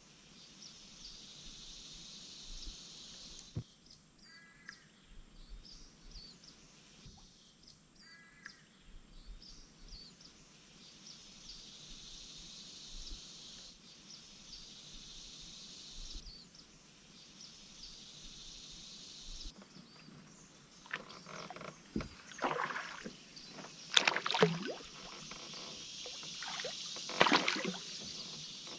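Canoe paddle strokes in river water, splashing and dripping, three or four strokes in the last third. Before them there is only faint birdsong with a short call twice.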